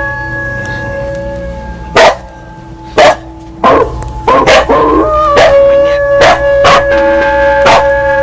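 A temple bell struck about eight times at uneven intervals, its tones ringing on between strikes. About four to five seconds in, a wavering cry bends in pitch over the ringing.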